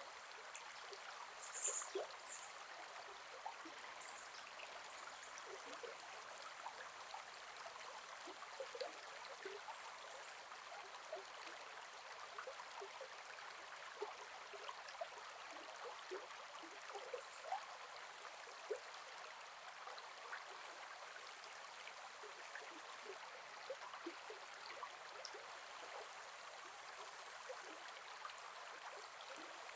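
Gentle forest river flowing with a steady soft rush and constant small gurgles and babbling over stones. Two brief high-pitched sounds come about two seconds in.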